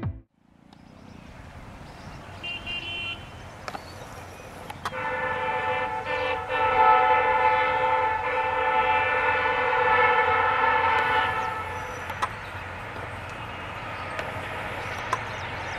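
Indian diesel locomotive sounding its horn: a short toot, then one long blast of about six seconds as the train draws near. A steady train rumble builds underneath and carries on after the horn stops.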